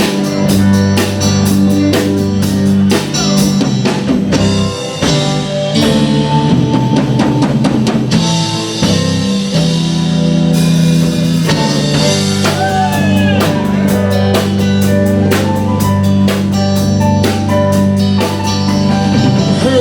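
Band playing an instrumental break with no vocals: drum kit keeping a steady beat under bass and guitar, with the guitar bending notes about two thirds of the way through.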